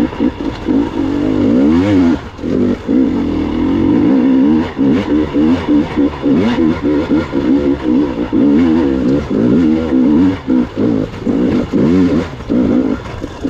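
Gas Gas EX 300 two-stroke dirt bike engine under way, revving up and down again and again as the throttle is opened and chopped.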